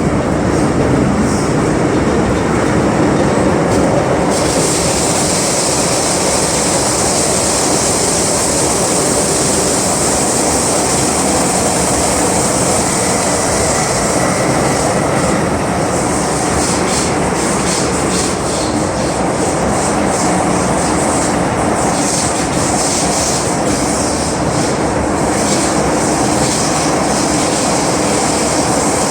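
Interior running sound of an MTR M-Train metro car at speed: a steady rumble of wheels on rail. A high hiss comes in about four seconds in and stays to the end, flickering on and off in the second half.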